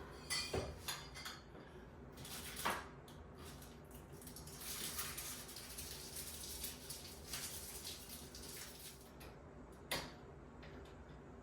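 Light metal clinks and knocks of shower curtain rod hardware being handled and fitted, with a few sharp taps and a stretch of hissy rubbing in the middle.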